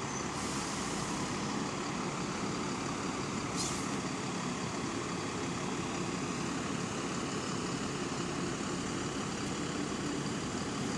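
Bus engine running steadily over road traffic noise, with a brief high hiss a little over three seconds in.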